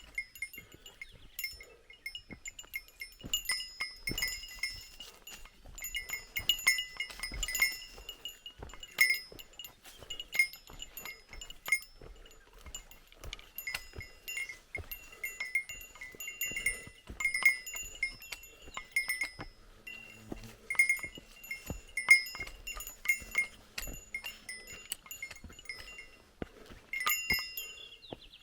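A small metal bell, of the bear-bell kind, jingling irregularly about once or twice a second as it swings with each step, mixed with footfalls and small knocks on the trail.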